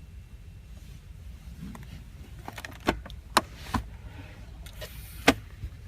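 A few sharp clicks and knocks from hands working fittings in a car's rear cabin, three close together a little under halfway and one more near the end, over a low steady rumble.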